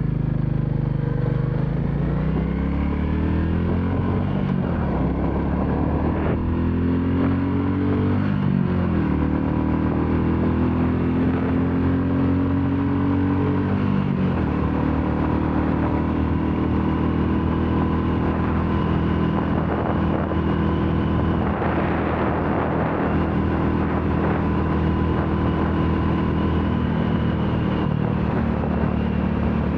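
Royal Enfield Classic 350's single-cylinder engine running under way, its pitch rising and falling with the throttle for the first several seconds, then climbing. About halfway through it drops suddenly and holds steady after that.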